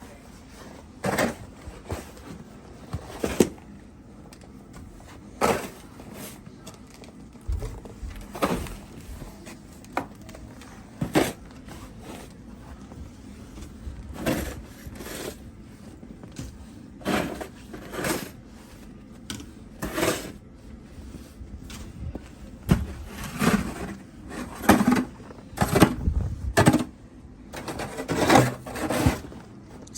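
Snow shovel scraping and pushing snow in short, repeated strokes, one every second or two, coming faster near the end.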